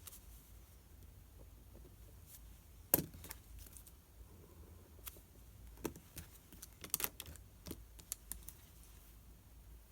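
Scattered light clicks and knocks of small objects handled on a study desk, the sharpest about three seconds in and a quick cluster around seven seconds.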